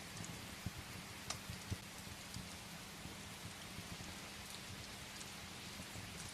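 Steady rain tapping on a window, with scattered ticks and soft pops from a crackling wood fire mixed in; a few louder pops come in the first two seconds.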